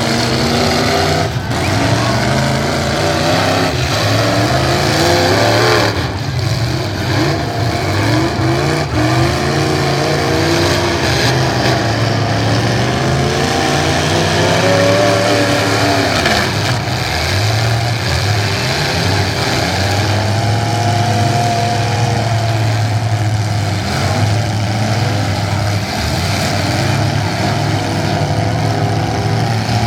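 Several demolition derby cars' engines running and revving at once, pitches rising and falling as they accelerate, with a few thumps of cars hitting each other.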